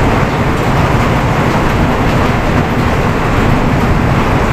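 Heavy rain pouring down steadily, a loud even rushing noise with a deep rumble under it.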